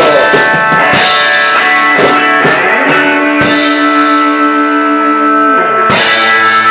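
Live rock band playing the ending of a song on guitars and drums: drum hits about once a second, then a held final chord ringing out.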